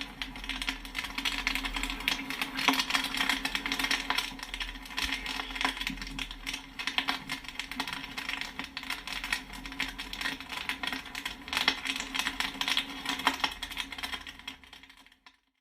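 Popcorn kernels popping and pinging in quick, dense crackles over a steady low hum, fading out near the end.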